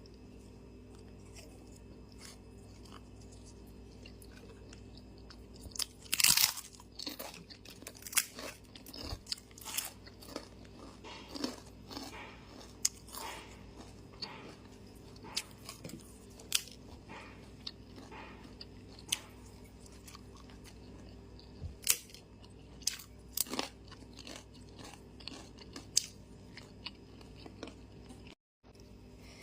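A person chewing and biting food close to the microphone: irregular crisp crunches and wet mouth clicks starting about six seconds in, over a steady low hum.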